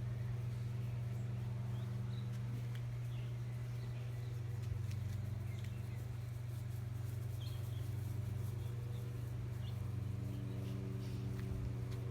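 A steady low mechanical hum throughout, with faint short bird chirps and a few small clicks over it.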